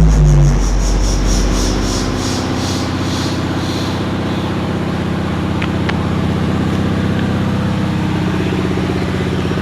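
An engine idling steadily as heavy bass music stops, its low bass dying away over the first two seconds.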